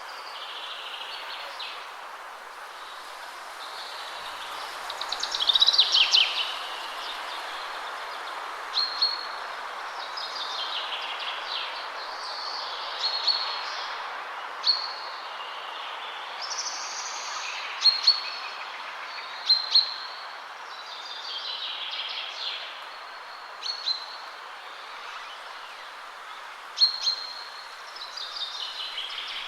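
Steady wind in trees with several small birds singing over it: short high notes repeating every second or two, and longer falling trills, the loudest about six seconds in.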